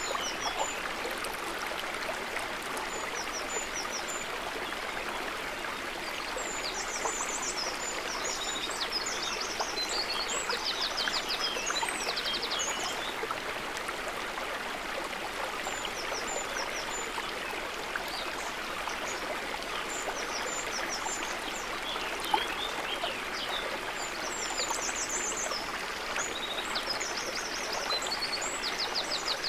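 River water running and trickling steadily. Bursts of high chirps and rapid trills come over it several times, and there is one sharp tick about three-quarters of the way through.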